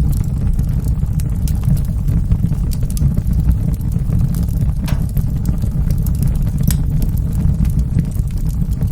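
Wood fire burning in a fireplace: a steady low rumble of flames with scattered crackles and sharp pops, a couple of them louder about five and seven seconds in.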